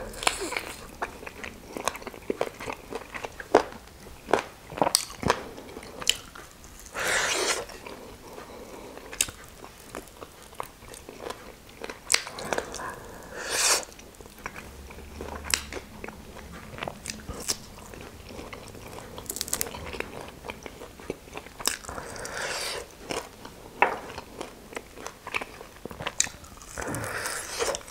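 Close-miked biting and chewing of fried chicken wings: many short, sharp crunches with chewing in between.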